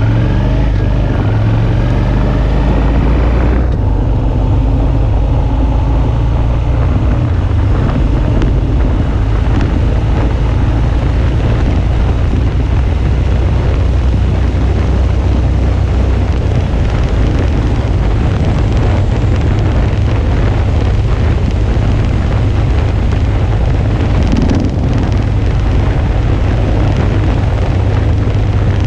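Suzuki V-Strom 650's V-twin engine running under way, its pitch rising for the first few seconds as it accelerates. After that comes a steady drone under heavy wind rush on the action camera's microphone.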